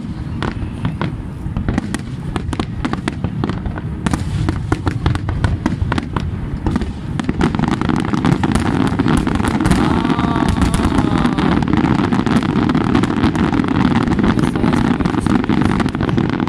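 Aerial fireworks display: a rapid stream of bangs and crackles from bursting shells over a continuous low rumble, growing denser and louder about halfway through.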